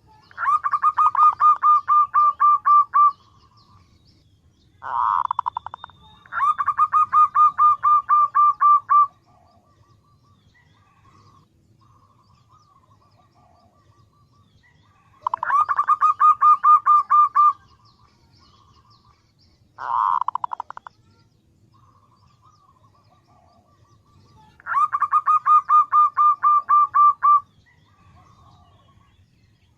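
Female zebra dove (perkutut) calling: bouts of rapidly repeated short cooing notes, about five a second, each bout lasting two to three seconds. Four such bouts come, two of them preceded by a short, harsher burst.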